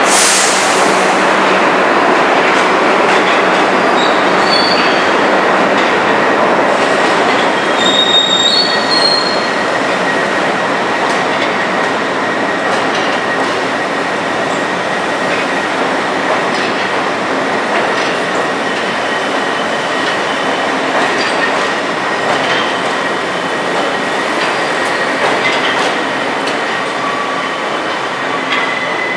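R62 subway train pulling out of the station, its wheels running loud and steady on the rails with a few short high-pitched wheel squeals several seconds in. The noise eases slowly as the train moves away.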